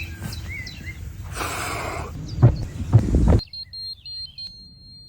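Birds chirping over outdoor background noise, with two heavy thumps a little before halfway. Then a sudden cut to a high electronic beeping tone that pulses a few times and is held for about a second.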